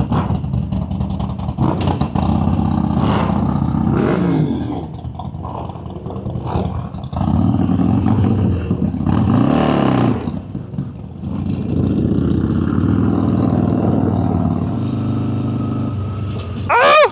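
Motorcycle engine under way, revving up and easing off several times, its pitch climbing on each pull, over steady wind and road noise. A short loud moment near the end comes as the bike hits a big bump.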